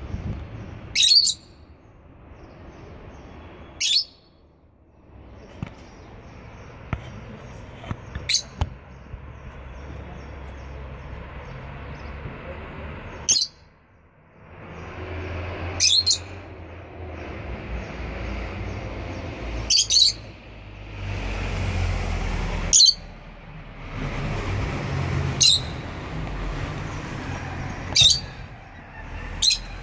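Lovebirds giving short, shrill single chirps every few seconds, about nine in all, over a steady low background noise.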